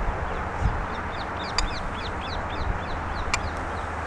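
Birds chirping: a quick run of many short, high calls over a steady low outdoor rumble, with a couple of faint clicks.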